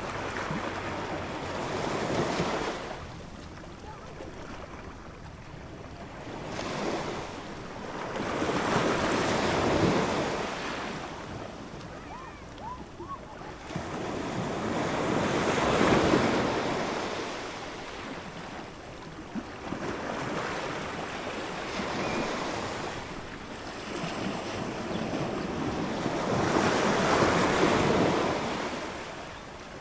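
Ocean surf: waves rolling in and washing back in slow surges, each building up and fading away every six to ten seconds.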